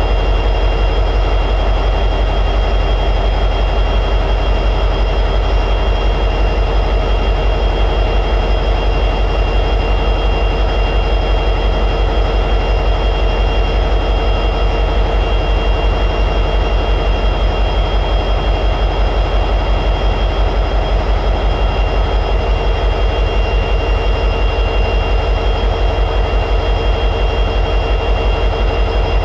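EMD 16-cylinder 710G3B diesel prime mover of an SD60E locomotive running steadily at high idle: a fast, even throb with a faint steady high-pitched whine over it.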